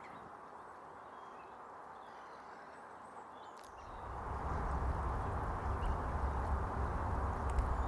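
Steady outdoor hiss with a few faint bird calls; about four seconds in a low rumble sets in and the sound grows louder.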